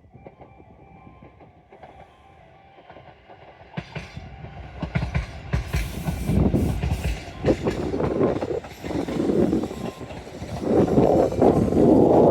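Tobu Isesaki Line electric train approaching the station: a rumble grows from about four seconds in, with wheels clattering over the rail joints, and is loudest near the end.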